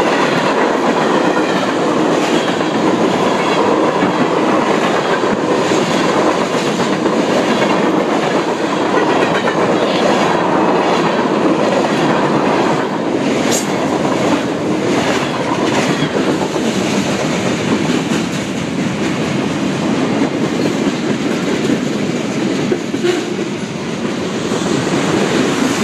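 Loud freight train passing at speed: a steady rush and rumble of rolling cars, with a repeated clicking of wheels over the rail joints.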